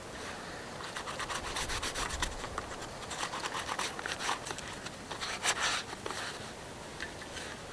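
Quick, irregular scraping and rubbing strokes, in clusters over most of the stretch and thinning out near the end.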